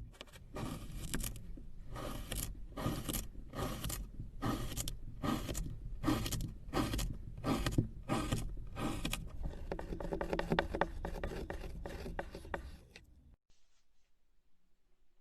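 Repeated scraping strokes, about two a second, that give way to quicker, lighter clicking and scraping and then stop shortly before the end.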